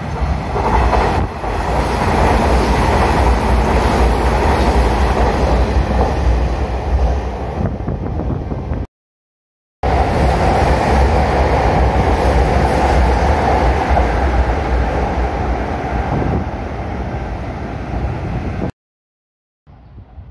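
Electric trains running through the station: a steady, loud rumble and rush of wheels on rail, in two stretches split by about a second of dead silence near the middle. The first is a Hanshin train, the second a Sanyo Electric Railway train running along the platform.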